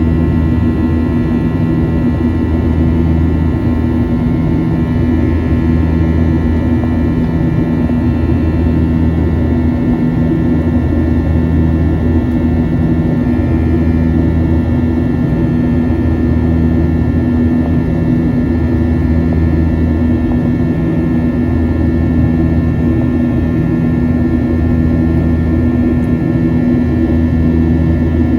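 Boeing 737-800's CFM56-7B jet engines running steadily, heard from inside the cabin: a loud, even drone with steady engine tones and a slow beat in the low rumble that swells about every two seconds.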